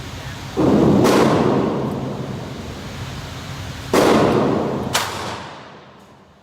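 Gunshots at a shooting range: two loud shots about three seconds apart, each dying away slowly, with a sharper crack shortly after each.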